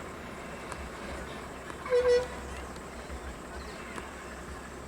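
A vehicle horn gives one short honk about two seconds in, over a low steady rumble of traffic.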